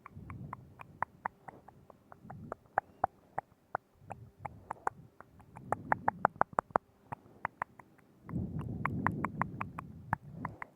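Close-miked ASMR mouth sounds: rapid wet tongue and lip clicks, several a second, mixed with stretches of soft, moist smacking and breathy noise. The longest of these stretches comes near the end.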